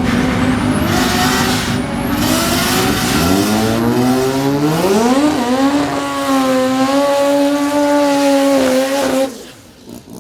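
Drag car engine at the strip: a steady engine note with a rush of tyre noise, then revs climbing in a rising pitch and held high for about four seconds before cutting off suddenly.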